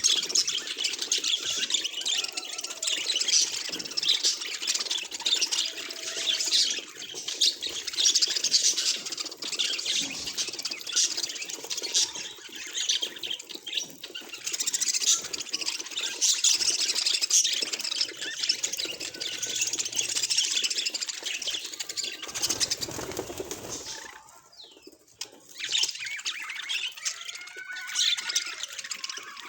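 Budgerigar chattering and warbling in a fast, continuous stream of chirps and squawks, with a brief lull about three-quarters of the way through.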